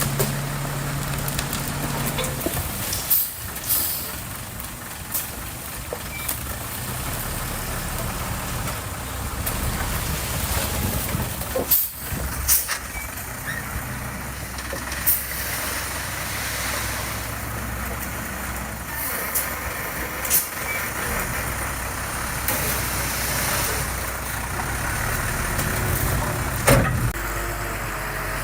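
Diesel engines of heavy earthmoving equipment running steadily, with several sharp clanks or hisses scattered through.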